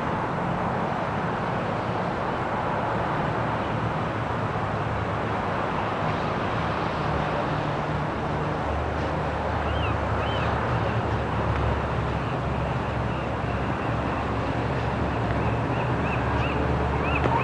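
Steady outdoor traffic noise with a low engine hum that comes in about halfway through. A few short, high chirps are heard in the second half.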